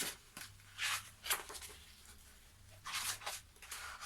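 Short rustling and scraping of a paper picture book being handled: several brief bursts, about a second in and again around three seconds in.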